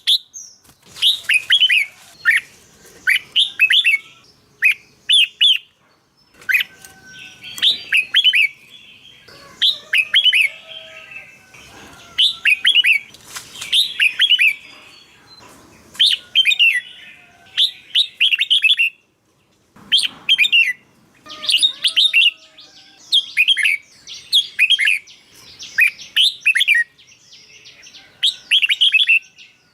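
Red-whiskered bulbul singing: short phrases of quick, bright whistled notes, repeated every second or two with brief pauses between them.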